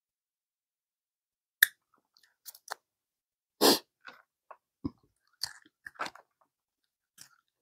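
Close-up chewing of a mouthful of Quarter Pounder burger: wet mouth clicks and smacks in short scattered bursts, starting about one and a half seconds in, with one louder burst of noise about halfway through.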